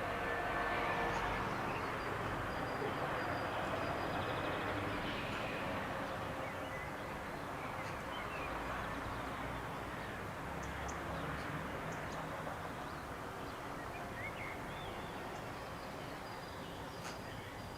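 Steady outdoor background noise that slowly fades, with a few short, faint bird chirps scattered through it.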